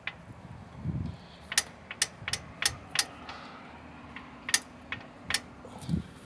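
Irregular sharp metallic clicks and clinks, with a couple of dull thumps, from hands-on work at a truck's broken front ball joint and wheel.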